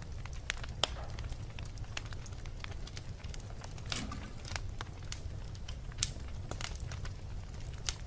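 Wood fire burning in a fireplace: a steady low rumble of the flames with irregular sharp crackles and pops, the loudest pop about six seconds in.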